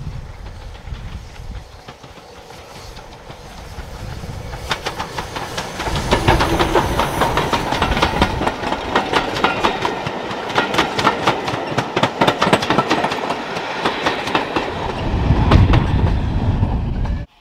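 Steam-hauled passenger train passing close by. The sound builds over the first few seconds, then the coaches' wheels click rapidly and steadily over the rail joints, with a heavier low rumble near the end before the sound cuts off suddenly.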